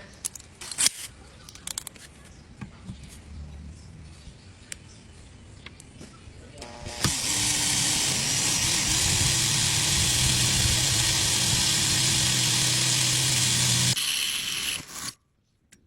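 A few light clicks and knocks. Then an electric power tool starts about halfway through and runs steadily for about seven seconds, a low hum under a bright hiss, before it winds down and stops.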